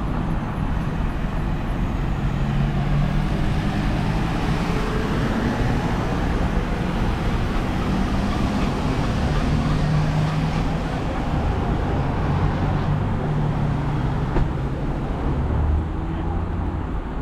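Road traffic: a steady wash of passing cars with low engine hum that swells and fades.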